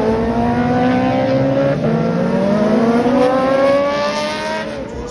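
Car engine accelerating hard, its pitch climbing, with an upshift about two seconds in, then climbing again before it falls away near the end.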